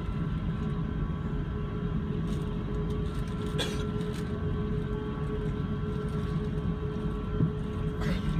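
Airliner jet engines running steadily: a low rumble with a steady high whine, and two brief clicks.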